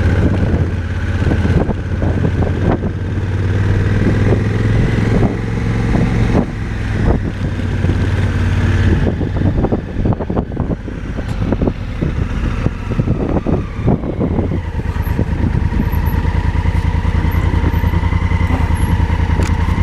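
Motorcycle engine running, with frequent knocks and rattles over rough dirt road. About fifteen seconds in, it settles into an even, steady beat.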